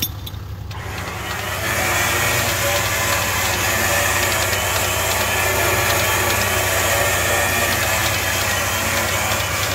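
Vehicle engine running with a steady low hum. About a second and a half in, a loud steady hiss comes up and holds.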